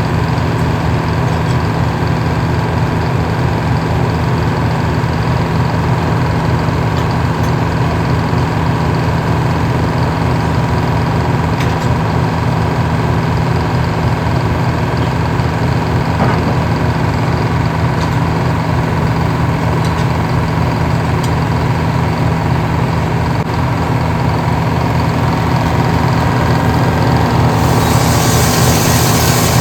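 Engine powering an old circle sawmill, running steadily with a low, even drone. A higher hiss joins near the end.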